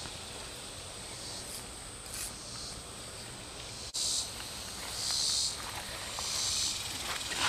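Insects calling: a steady thin high whine, then from about halfway, short high buzzes repeating roughly once a second.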